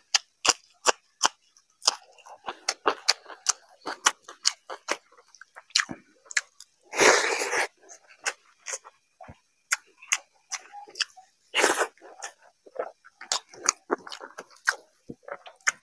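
A person chewing close to the microphone, a raw green chilli with rice: a fast, uneven run of crisp crunches and wet mouth clicks, with a couple of longer, louder noisy bursts about seven seconds in and near twelve seconds.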